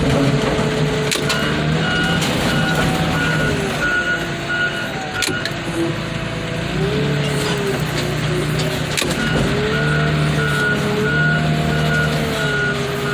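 Heavy equipment's diesel engine running with its pitch rising and falling under load, while a reversing alarm beeps about twice a second, stops for a few seconds mid-way, then starts again. A few sharp metal knocks.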